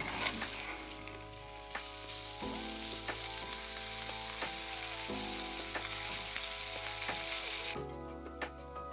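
Mushrooms and then shrimp sizzling in hot oil in a cast-iron pan, with a spatula stirring at the start. The sizzle drops away near the end, leaving soft background music with slow chord changes.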